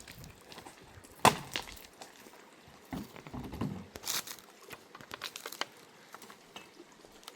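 Wood snapping and crackling: one sharp crack a little over a second in, then bursts of irregular crackling.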